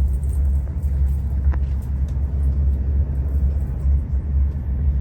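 Tour boat's motor running with a steady low rumble.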